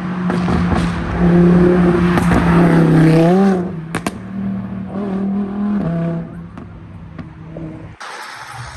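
Sports car engine and exhaust running loud with a steady note, rising briefly about three seconds in before settling again. The sound cuts off abruptly near the end.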